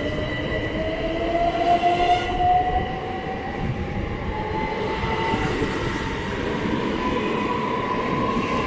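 c2c Class 357 Electrostar electric multiple unit pulling away from the platform. Its traction motors give a whine that rises steadily in pitch as it accelerates, over the running noise of wheels on the track.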